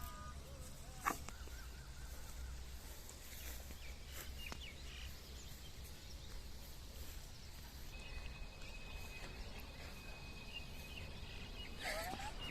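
Faint outdoor background noise with a steady low rumble, a single sharp click about a second in, a few faint high chirps, and a thin steady high whistle for a few seconds near the end.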